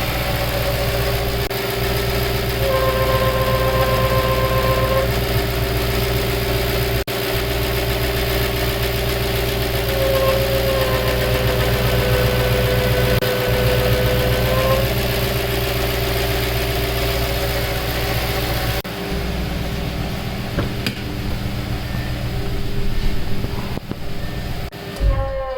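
B6 Audi S4's 4.2-litre V8 idling, with a steady honking tone that comes in twice for a few seconds over the engine sound, then the engine shuts off near the end with a wavering honk as it dies. The owner suspects a vacuum leak.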